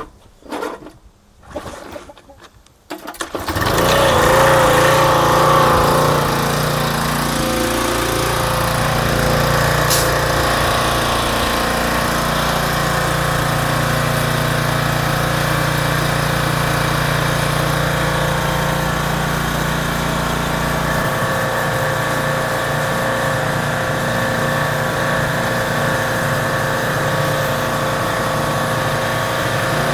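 Pressure washer's small gasoline engine starting after a few short pulls, catching about three seconds in and then running steadily; its low note changes about two-thirds of the way through.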